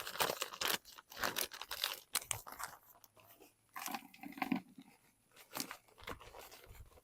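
Potting soil being scooped from its bag and dropped into the bottom of a planter: a run of irregular crunching, rustling and crinkling strokes.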